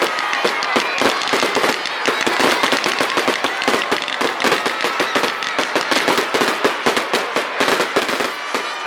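Fireworks display: a dense barrage of rapid crackling bangs, many per second, thinning slightly near the end.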